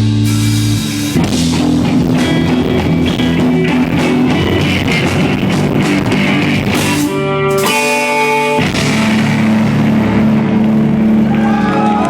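Live rock band playing loudly with electric guitar and drum kit. About seven and a half seconds in, the low end drops out for about a second while a single high note rings, then the full band comes back in.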